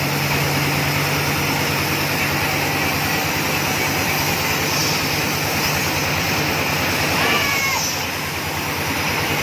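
Large water-well drilling rig's engine running loud and steady under continuous load, with a constant low hum beneath an even mechanical roar.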